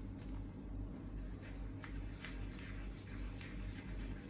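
Colouring pen or crayon drawing on paper: a series of short, faint, irregular scratchy strokes over a steady low hum.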